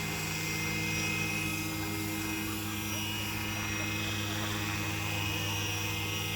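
Vario scale Eurocopter EC135 RC helicopter running steadily, a constant hum of several steady tones that holds its pitch and level.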